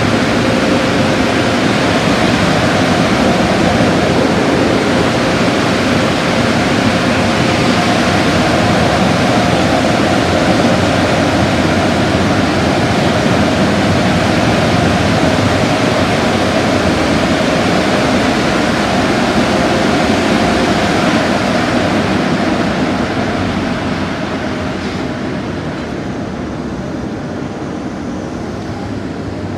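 Car wash machinery running: a loud, steady rush of spray or air with a steady motor hum, easing off about 23 seconds in.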